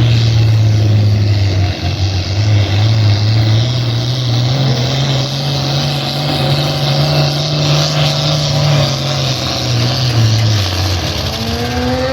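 Engine of a pulling vehicle running loud and steady down the track under load, its pitch dipping briefly about two seconds in and dropping away near the end.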